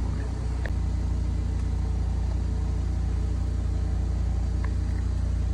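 BMW E92's engine idling steadily, an even low hum, with a single click about a second in.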